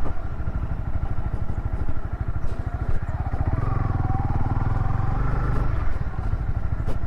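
Single-cylinder Honda CB300 motorcycle engine running steadily as the bike is ridden off-road, its pitch rising briefly about halfway through as the throttle is opened.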